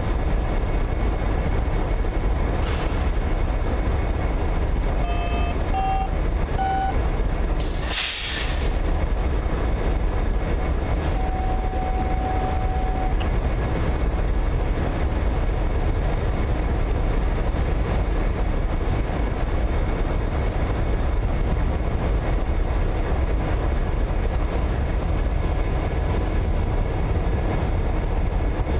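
Diesel freight locomotives running steadily close by, a loud low rumble throughout. A short hiss comes about eight seconds in, and a few brief electronic beeps sound around it.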